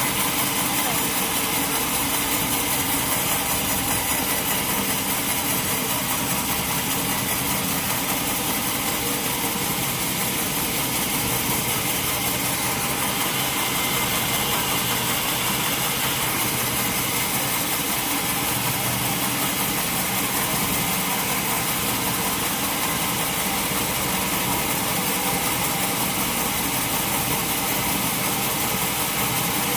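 Sawmill machinery running steadily with a continuous mechanical hum and whir, with no breaks or separate impacts.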